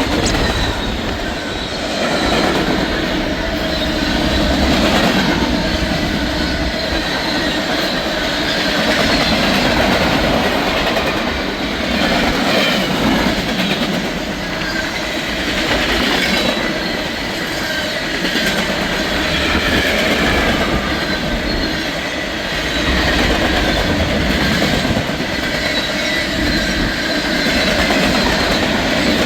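Fast-moving Norfolk Southern mixed freight train passing, a loud steady rush of freight cars rolling by on the rails with wheel clatter and some wheel squeal.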